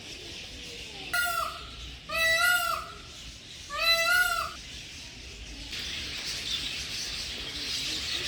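A large bird gives three loud calls, each about half a second long and rising then falling in pitch. About six seconds in, a steady high hiss sets in.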